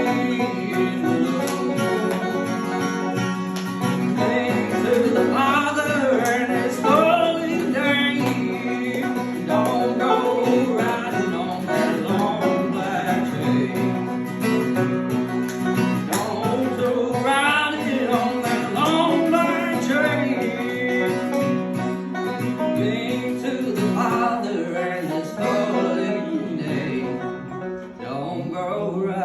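A man singing a country gospel song over guitar accompaniment.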